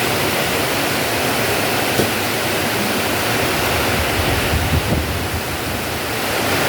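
Heavy rain pouring steadily, with a short knock about two seconds in and low gusts of wind on the microphone around four to five seconds in.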